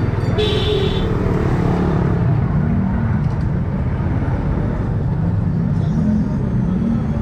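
Motorcycle engine running under way, with steady rumble and traffic noise on the road. About half a second in there is a brief high-pitched beep, like a vehicle horn.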